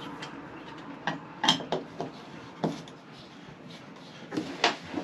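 A few scattered knocks and clunks of objects being handled and set down, over a faint steady background hum.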